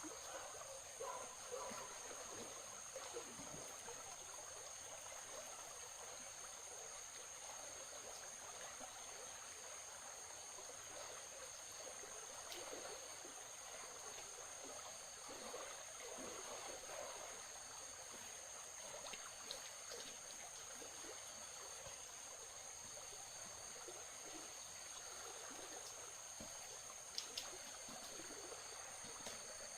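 Water trickling steadily, with a steady high-pitched hum above it. A couple of light clicks come near the end.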